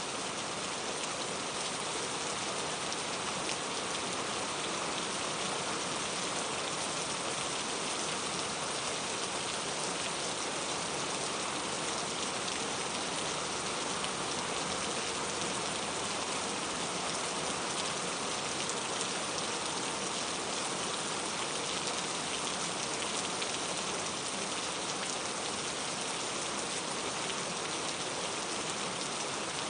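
Steady rain falling, an even hiss of many small drops striking a surface.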